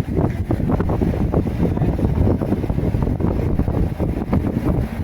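Strong wind buffeting the microphone: a loud, gusting low rumble with no steady pitch.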